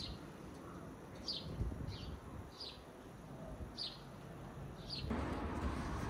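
A bird chirping: short, falling single chirps, roughly one a second, over a low rumble. About five seconds in it cuts abruptly to a steady hiss of wind and traffic noise.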